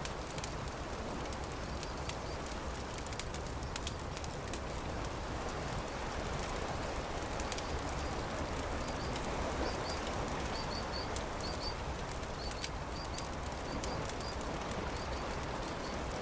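Campfire crackling with frequent sharp pops over a steady rushing background. From about nine seconds in, a small bird chirps repeatedly in short high notes.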